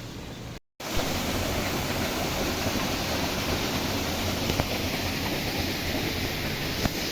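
Steady rushing of fast-flowing floodwater, a dense even noise. It cuts out briefly just after the start, then comes back louder.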